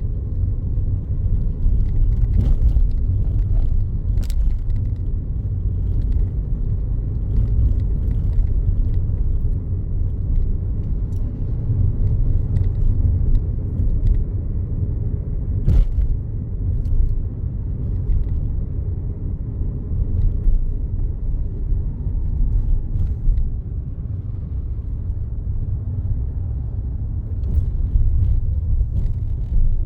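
Steady low rumble of a car's engine and tyres on the road, heard from inside the cabin while driving at a steady speed. A few scattered sharp knocks, the loudest about sixteen seconds in.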